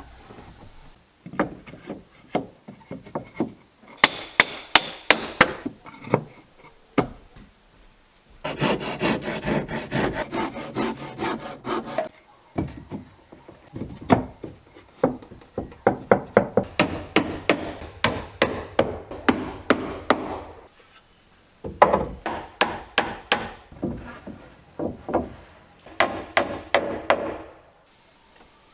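A hand tool working wood: several runs of quick, sharp rasping strokes, about five or six a second, broken by short pauses.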